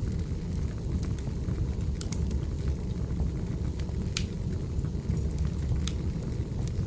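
Wood fire crackling: scattered sharp pops and snaps over a steady low rumble, the sharpest pop about four seconds in.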